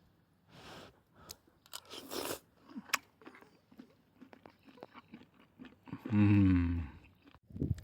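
Someone eating curry rice: the spoon clicks and scrapes against the dish, with chewing in between. About six seconds in comes a loud, low hum lasting about a second.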